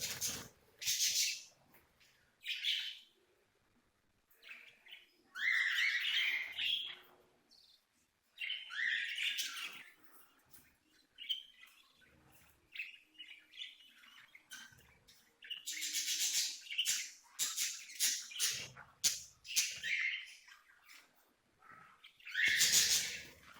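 Budgerigars chirping and chattering in repeated bursts of up to a second or so, with short gaps between.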